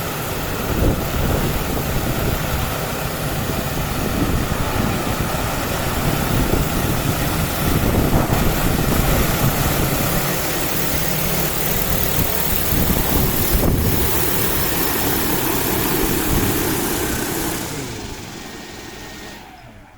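DJI Agras T50 agricultural spray drone's eight rotors running loud as it comes down to land, their downwash buffeting the microphone. The rotors then wind down and go quiet near the end.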